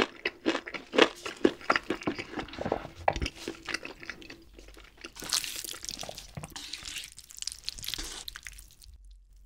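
Close-miked chewing with crisp crunching clicks, about three a second, for the first four seconds. From about five seconds in, the wet, sticky rustle of thick creamy ramen noodles being stirred and lifted with chopsticks.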